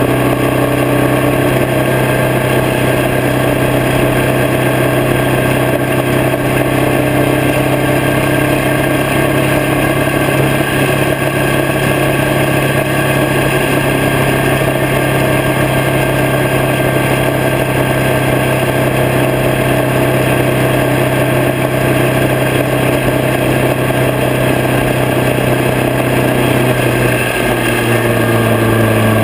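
Harley-Davidson V-twin motorcycle engine running at a steady cruise, heard from a camera on the bike with wind rush over the microphone. Near the end the engine note shifts and drops in pitch as the revs come down.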